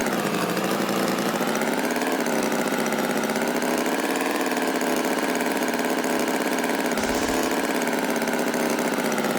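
An engine running steadily at idle, its pitch wavering slightly, with a low rumble joining near the end.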